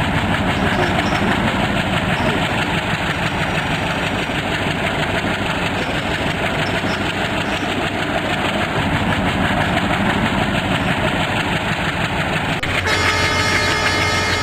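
A train running through a railway station, a loud steady rumble and rush of wheels and engine. About 13 seconds in a horn starts and is held steadily.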